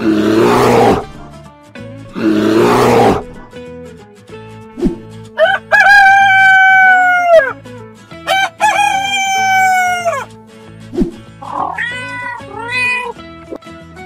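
Rooster crowing twice, each a long call of about two seconds that falls off at the end, over light background music. Two loud rough roars come before it, and a few shorter animal calls near the end.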